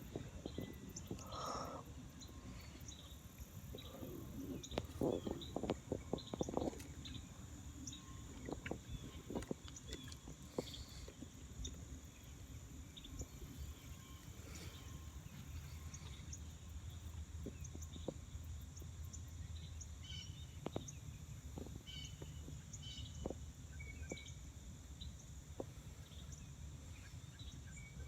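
Outdoor ambience with birds chirping faintly over a low steady rumble, broken by scattered clicks and knocks, with a cluster of them about five seconds in.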